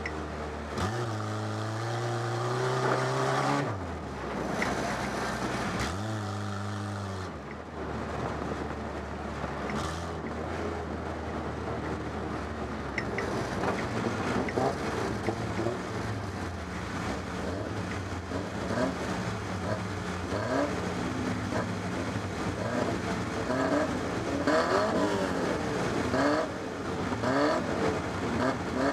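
Stock car engine heard from inside its cabin, revving up and dropping back several times in the first few seconds, then idling. From about halfway on, the engines of several other stock cars close by rev up and down over it.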